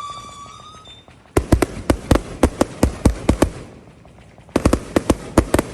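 A firework whistle fades out in the first second. Then come rapid strings of sharp firework bangs: about a dozen in two seconds, a short pause, and another quick string near the end.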